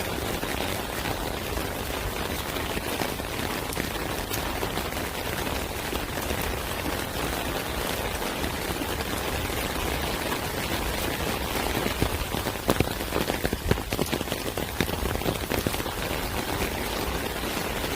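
Steady rain falling, a dense even patter. About two-thirds of the way through, a brief cluster of sharp pops and crackles sounds over it.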